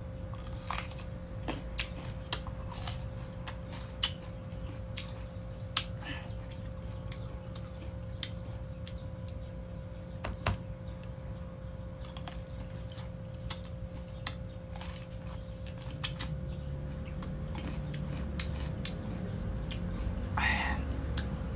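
Crunchy mango being bitten and chewed close to the microphone: irregular sharp crunches over a steady hum.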